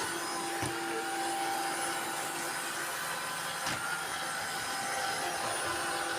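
Several robot vacuum cleaners running at once: a steady hum and whine of motors and brushes, with two brief knocks, one near the start and one about halfway through.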